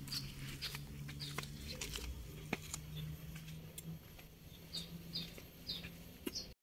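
Faint outdoor ambience: a bird chirping short high notes again and again, with a few light clicks and a low steady hum underneath.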